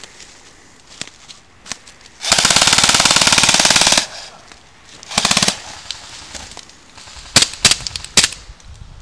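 Airsoft gun firing full-auto: one long rapid burst of about a second and a half, a short burst about a second later, then a few separate sharp cracks near the end.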